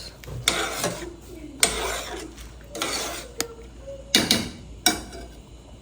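Pots and kitchen utensils being handled on the stove: a series of short scrapes and clacks, about five, spread over a few seconds.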